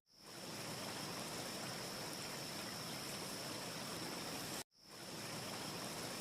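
Steady, even rushing hiss of a looped wind ambience track with a faint high whine in it; no fireplace crackle can be picked out. It cuts to silence at the start and again about four and a half seconds in, fading back up each time at the loop seams.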